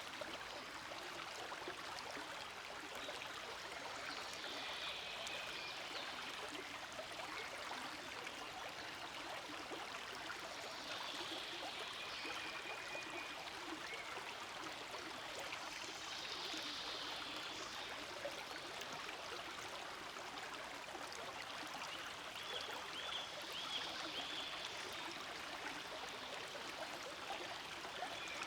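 Small forest stream flowing steadily, an even rush of running water with no break.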